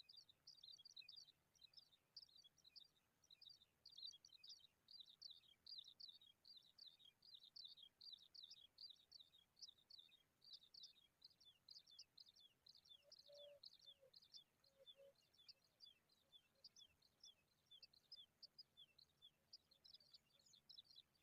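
Baby pipits chirping: a faint, continuous stream of short, high, slightly falling notes, several a second.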